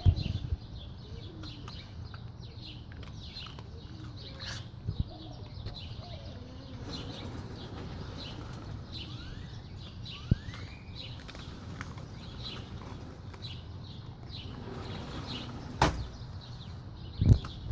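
Short bird chirps repeat over a low steady background, broken by a few sharp knocks about 5, 10 and 16 seconds in and a quick run of knocks near the end.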